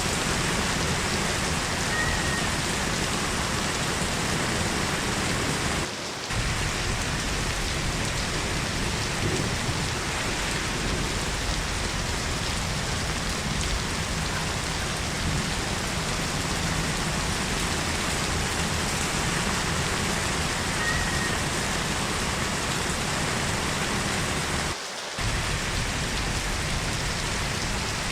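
Heavy rain falling steadily, an even dense hiss, which dips briefly about six seconds in and again near the end.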